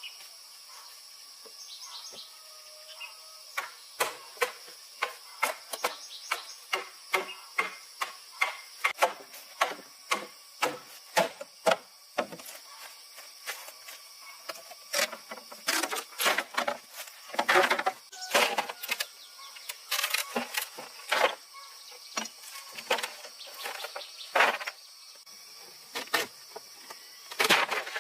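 Irregular series of sharp knocks and taps, about one or two a second and loudest in the second half, over a steady high buzzing of insects.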